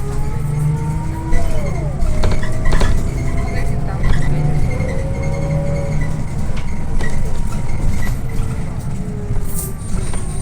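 Scania OmniLink I city bus driving, heard from inside the cabin: a steady low engine rumble with whining tones that rise and fall slowly as the bus speeds up and slows, and scattered rattles and knocks from the body.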